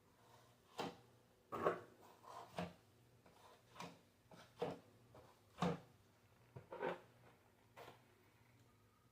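Drywall knife scraping and spreading joint compound over a taped patch. There are about a dozen short, irregular scrapes and taps, roughly one or two a second.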